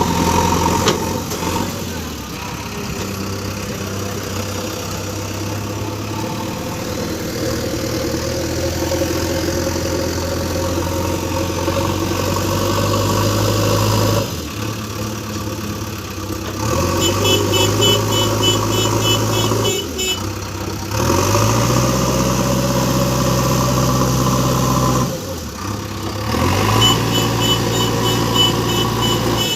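Heavy diesel engine of a tractor or JCB machine working in mud: it runs steadily, dips briefly a few times, and climbs in pitch as it is revved. Twice, in the second half, a rapid high-pitched beeping sounds over it.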